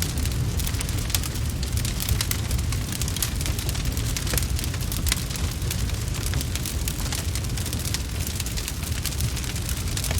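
Wood fire crackling, with many quick, irregular pops and snaps over a steady low rumble.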